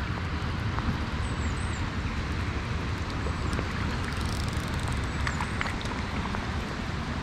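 Steady noise of rain falling on a river, with a low wind rumble on the microphone and scattered faint raindrop ticks.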